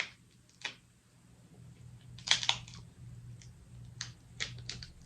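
Crab legs being cracked and picked apart by hand: a series of short sharp snaps, the loudest cluster about two seconds in and several quick smaller ones near the end, over a faint steady low hum.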